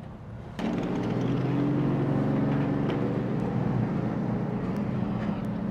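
Dirt modified race car engine running steadily, cutting in abruptly about half a second in.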